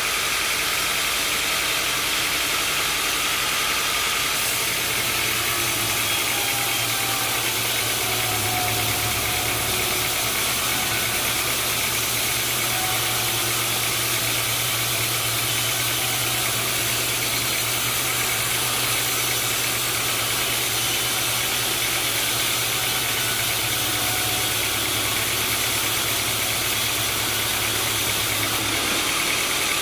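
Sawmill machinery engine running steadily, with a lower hum joining about four seconds in and dropping out near the end.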